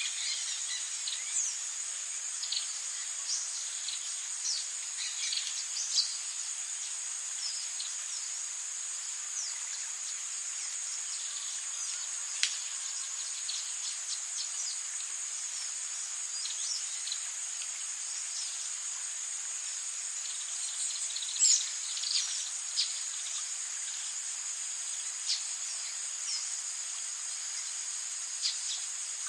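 Tropical insect chorus, a steady high-pitched drone, with many short bird chirps scattered over it and a few louder chirps standing out.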